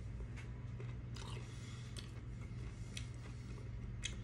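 A person chewing a mouthful of food with closed lips: faint, scattered wet clicks and crunches, roughly one a second, over a steady low hum.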